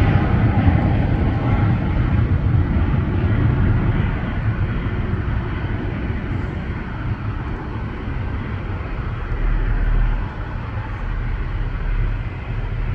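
Jet engines of a Boeing 737-800 (CFM56-7B turbofans) at takeoff power as the airliner climbs away, a broad rumbling noise that fades and loses its higher tones after about four seconds.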